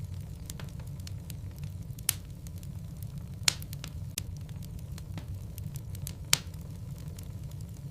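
Burning logs crackling in a fireplace: a steady low rumble of the fire with irregular sharp pops, three of them louder than the rest.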